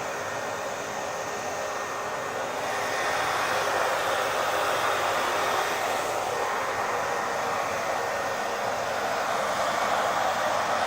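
Hair dryer running steadily with an even blowing hiss, getting a little louder about a quarter of the way in.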